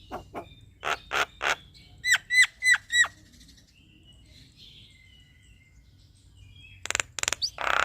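Male Javan myna singing: a few sharp calls, then four quick identical whistled notes that each rise and hook over at the top. After a softer twittering stretch come loud, harsh notes near the end.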